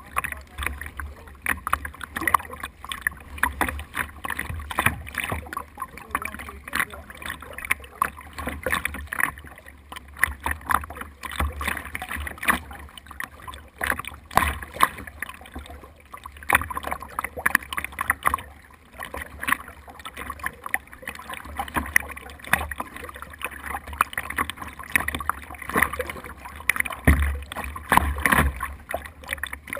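Water splashing and slapping against a small boat's hull in irregular bursts, over a low rumble of water and wind.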